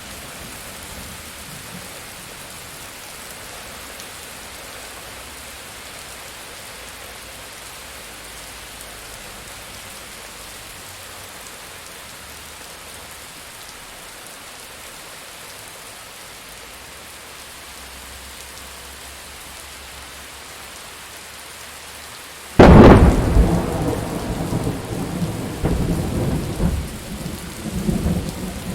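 Thunderstorm: steady rain falling, then a sudden loud thunderclap about three-quarters of the way through that rolls on into heavy rumbling thunder.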